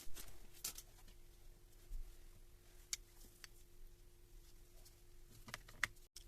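Light clicks and knocks of metal parts being handled during the rebuild of a Hilti TE1000 breaker. They come scattered, with a small cluster near the end, over a faint steady hum.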